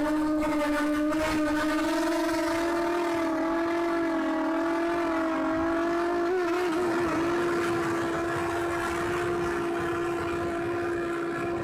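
Steady electric hum of a quadcopter drone's motors and propellers, its pitch drifting slightly and wavering briefly about six seconds in.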